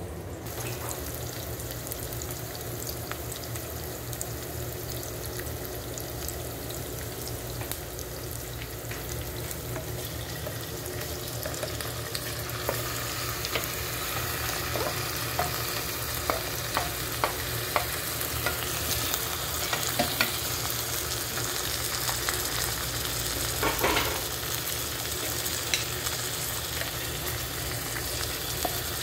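Raw squid pieces sizzling as they fry in a pan, a steady hiss that grows a little louder about halfway through. Scattered sharp clicks and knocks sound over it, with a stronger one near the end.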